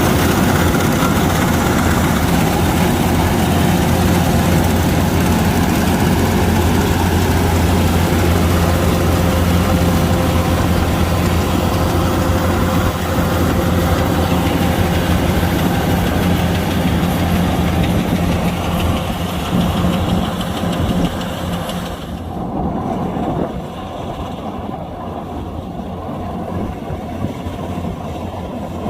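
Kubota DC-105X rice combine harvester running steadily, its engine hum and machinery noise loud and constant. About three quarters of the way through, the sound drops a little and the higher hiss falls away, leaving a duller running sound.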